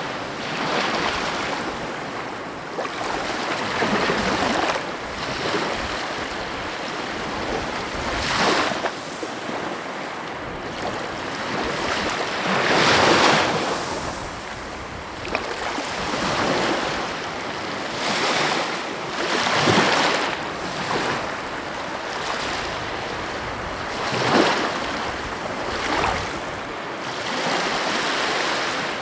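Sea waves breaking on the shore: a continuous wash of surf that swells into a louder break every four to six seconds.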